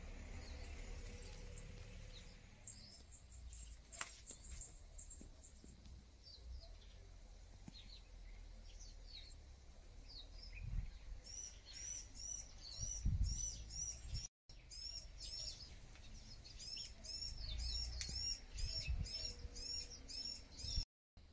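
A small bird calling: a quick run of high, arched chirps, about three a second, that starts about halfway through and goes on with a short break, over a faint low rumble. A few scattered high chirps come before it.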